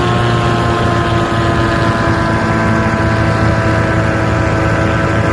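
Paraplane's engine and propeller running steadily in flight, a continuous drone whose pitch eases down slightly over a few seconds.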